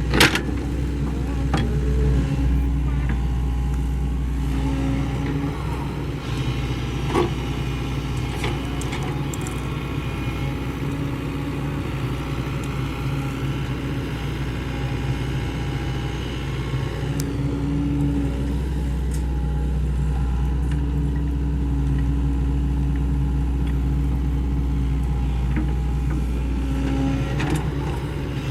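Sany SY75C excavator's diesel engine running steadily under working load, with a higher tone that comes and goes and a few sharp knocks, the loudest just at the start.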